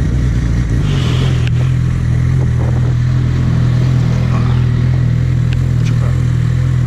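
Suzuki GSX650F inline-four engine running while riding; its note shifts about a second in, then holds a steady pitch, as at constant cruising revs.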